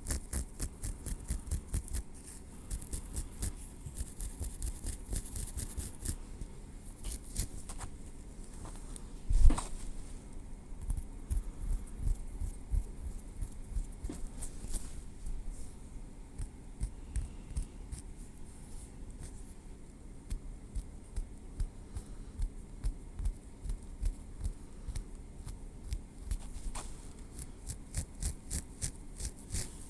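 Metal tweezers clicking and picking through hair close to the microphone, in quick runs of small sharp ticks. A single louder knock comes about nine seconds in.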